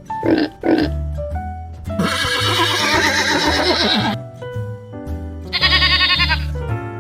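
Steady background music overlaid with recorded domestic farm-animal calls: two short calls near the start, a long wavering call in the middle, and a quavering bleat-like call near the end.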